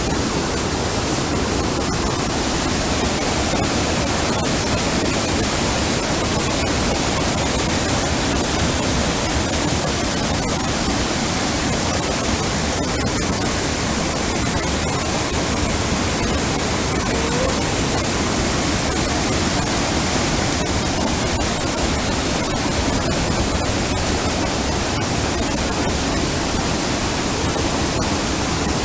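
A steady, even rushing noise that holds the same level throughout, with no breaks or changes.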